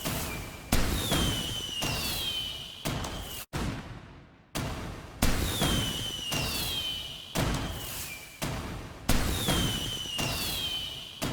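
Fireworks going off, a sharp bang every second or two, each fading away, several followed by a high whistle gliding down in pitch. The sound cuts out abruptly for about a second a little after three seconds in, then the bangs resume.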